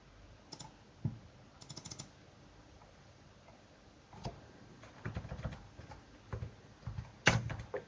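Typing on a computer keyboard: irregular keystrokes and clicks, with a quick run of keys about five seconds in and a sharper, louder click near the end.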